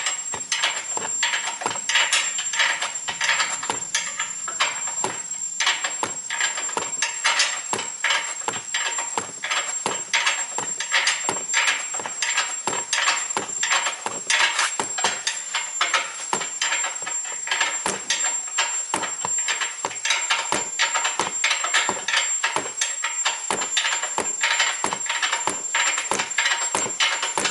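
Irregular metallic clinks and knocks of hand tools during suspension work, several a second, over a faint steady high-pitched whine.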